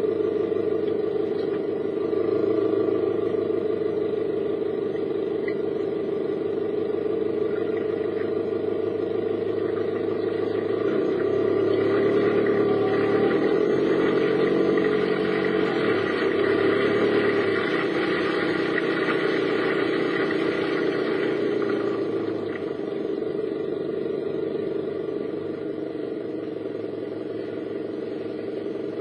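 A car's engine and road noise while driving, steady, swelling a little in the middle and easing off near the end.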